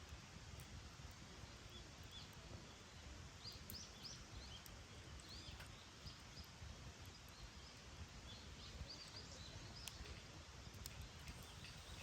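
Campfire burning quietly: a low, even crackling with an occasional sharp pop, and short high chirps scattered through.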